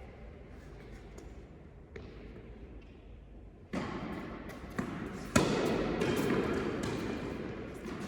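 Tennis ball being struck and bouncing on an indoor court: a few sharp knocks, the loudest about five and a half seconds in, with the background noise of the court rising from about four seconds in.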